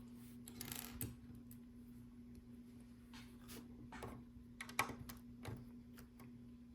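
Small plastic LEGO pieces clicking and rattling as they are picked out and pressed into place, a scatter of sharp clicks with the loudest a little under five seconds in, over a faint steady hum.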